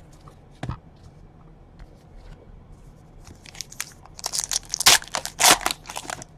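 A trading-card pack's foil wrapper being torn open and crinkled: a sharp tap under a second in, then a run of loud crackling rustles over the last few seconds.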